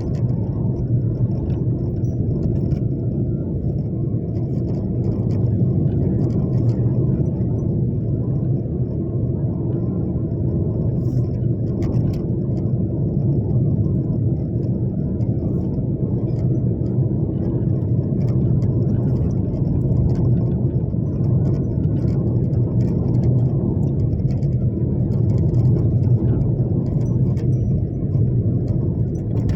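A steady low rumble like a moving vehicle's road and engine noise.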